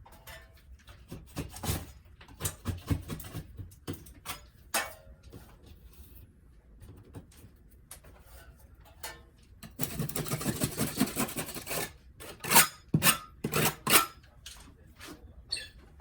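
Scattered knocks, clicks and taps of hand work, with about two seconds of rasping scraping around ten seconds in, followed by a few sharp knocks.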